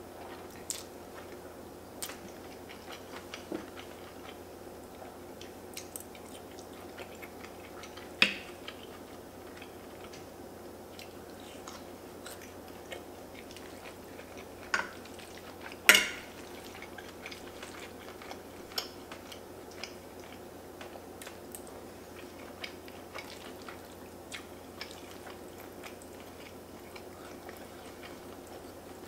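Someone chewing a mouthful of fettuccine in curry sauce, with scattered small clicks of a fork and wooden spoon on the pasta and plate. Two sharper, louder clicks stand out, about eight and sixteen seconds in, over a faint steady hum.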